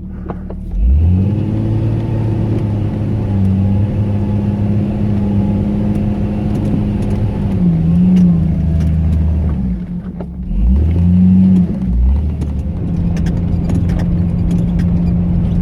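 Off-road 4x4 vehicle's engine revving up and pulling under load on a hill track. It drops off about ten seconds in, then revs up again and settles into a steady run.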